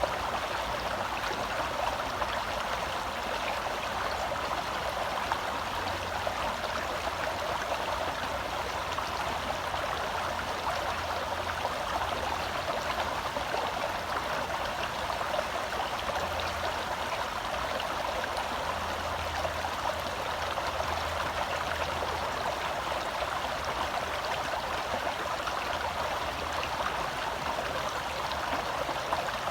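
Gentle forest stream flowing: a steady, even rush of water.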